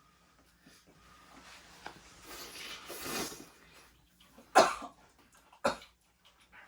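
A person coughing twice, about a second apart, the first cough the louder.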